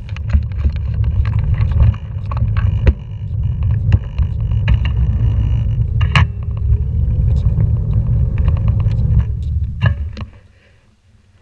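Scooter wheels rumbling over pavement, with knocks and rattles from bumps in the surface. The rumble cuts off about ten seconds in as the scooter stops.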